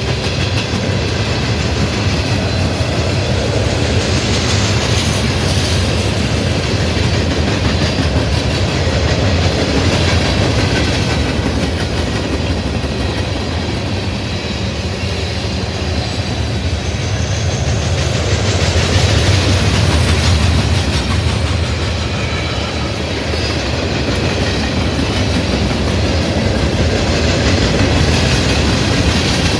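Train's railroad cars rolling past on the track: a steady heavy rumble with wheel clatter, swelling and easing a few times.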